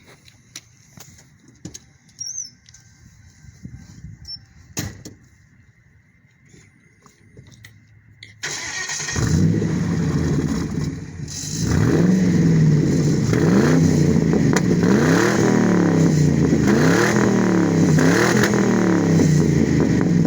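2003 Lincoln Town Car's 4.6-litre V8 heard through a straight-piped exhaust with the muffler deleted, starting up about eight seconds in after some faint clicks and handling noise. It runs loud, then is revved again and again, the pitch rising and falling about once a second.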